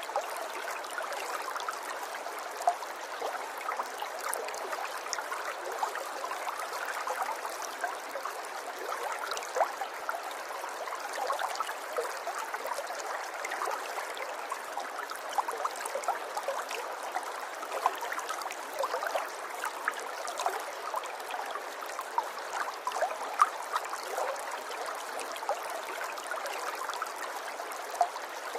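Shallow river water flowing and babbling over stones, a steady rush with frequent small splashes and droplet plinks scattered through it.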